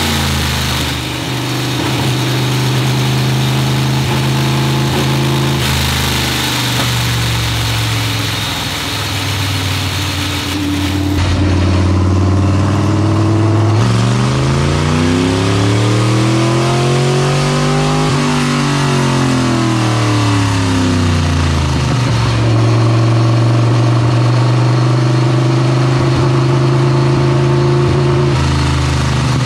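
GM 602 crate small-block V8 in a dirt modified, running on a chassis dyno. It runs at a steady speed, then in a dyno pull the revs climb for about four seconds and fall back over the next four before it settles to a steady run again.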